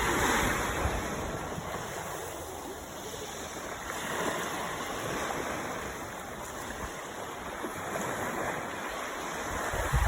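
Sea waves washing on the shore: a steady rush that is loudest at the start and swells again about four and eight seconds in.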